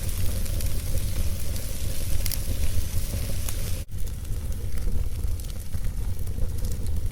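Wood fire burning with a steady hiss and a few sharp crackles, over a heavy low rumble; the sound cuts out for an instant about four seconds in.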